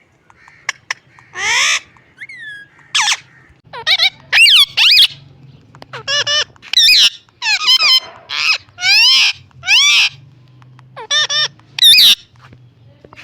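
Pet parrot calling: a string of short squeaky whistles and squawks, about a dozen, many sliding up or down in pitch.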